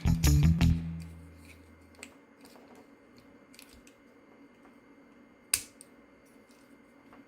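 Background music ends in the first second, then faint clicks of small plastic toy parts being handled, with one sharper click about five and a half seconds in.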